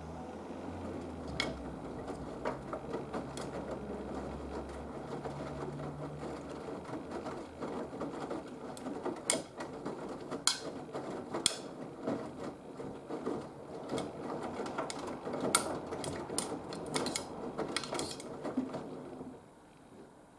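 Haier HW120 12 kg washing machine's drum turning the load during a cotton 40°C wash, a steady churning with many sharp clicks and knocks. It stops abruptly about a second before the end.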